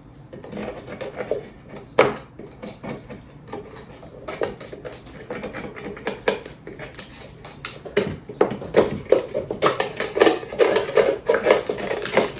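Kitchen utensils scraping and clinking against dishes while ingredients are scooped and measured: a quick run of small clicks and scrapes that gets busier and louder near the end.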